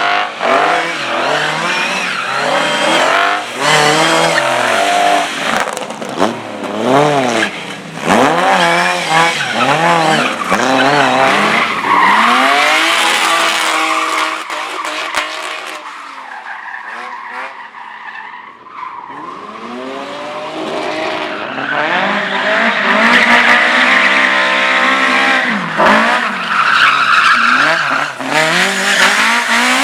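Slalom race car engine revving hard, its pitch rising and falling again and again as it is driven through the course, with tyres skidding. The engine sound drops away about halfway through, then builds again and holds at high revs near the end.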